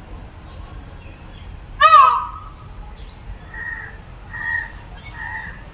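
Crows calling: one loud single call about two seconds in, then four short caws in an even series. A constant high-pitched hiss sits behind them.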